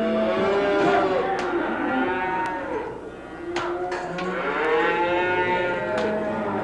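Several cattle mooing at once, their long calls overlapping, with a brief lull about three seconds in. A few short sharp knocks sound among the calls.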